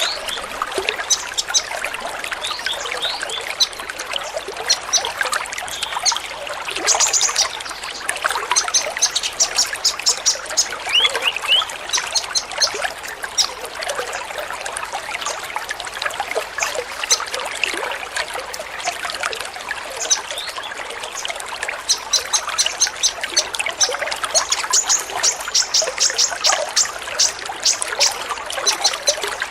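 Many sunbirds (Indonesian 'kolibri ninja') chirping together in rapid, high trills and short calls, over a steady trickle of water.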